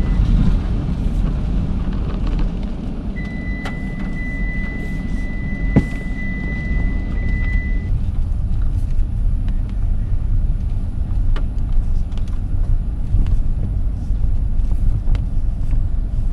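Steady low road rumble inside a moving car's cabin, with a thin high tone for a few seconds near the start and a few faint clicks.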